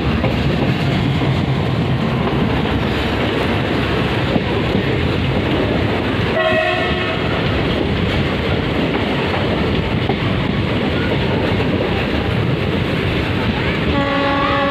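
Freight train of covered wagons rolling past close by, a steady rumble of wheels on the rails, with the Indian Railways diesel locomotive's engine hum fading in the first second. A train horn sounds briefly about six and a half seconds in, and a longer horn note begins near the end.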